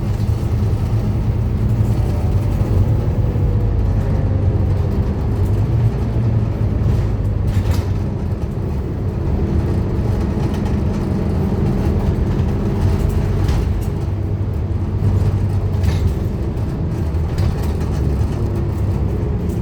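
Scania N230UD Omnicity double-decker bus running under way, its five-cylinder diesel engine a steady drone with a slight rise and fall in pitch, and a few sharp knocks from the body.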